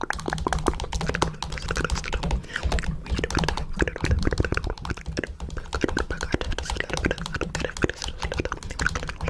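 Fast, continuous fingernail tapping on a camera, many sharp clicks a second.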